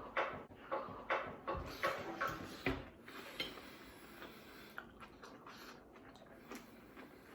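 Cutlery clinking and scraping on plates in a quick run of short knocks for about three seconds, then only faint scattered taps.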